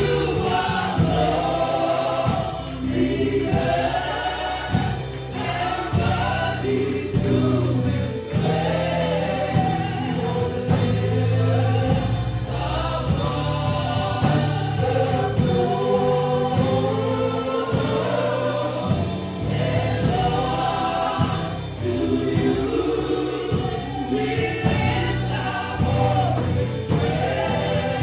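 A choir and congregation singing a gospel worship song, backed by a band with steady bass notes and a percussion beat.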